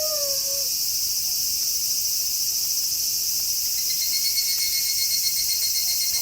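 The last of a wolf howl slides down in pitch and fades within the first second over a steady chorus of chirping crickets. About four seconds in, a thinner, higher pulsing trill joins the cricket chorus.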